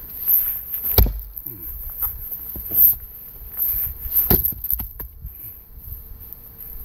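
Axe blows into a thick, round firewood log being split: a heavy chop about a second in and another about three seconds later, followed by a few lighter knocks.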